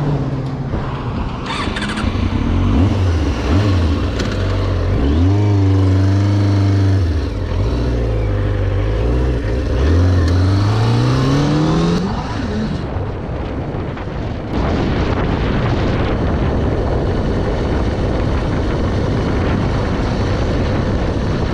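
Kawasaki ZX-6R's inline-four engine running and revving, its pitch rising and falling repeatedly through the first half, then a steadier, denser din from about two-thirds of the way in.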